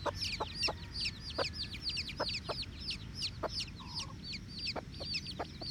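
A brood of chicks peeping steadily, many high, falling chirps overlapping several times a second. Scattered short clucks from the mother hen can be heard under the chirping.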